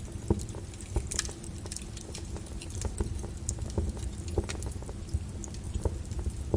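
Lava crackling and popping: irregular sharp cracks and ticks over a steady low rumble.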